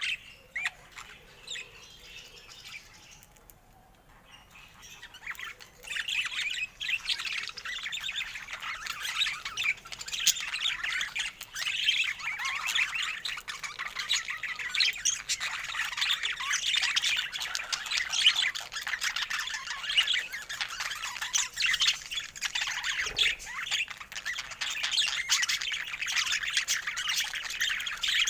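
Budgerigars chattering and warbling: a few scattered chirps at first, then dense, continuous chatter from about six seconds in.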